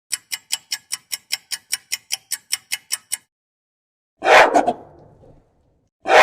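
Countdown clock ticking quickly, about five ticks a second for three seconds. After a short pause, a dog barks twice.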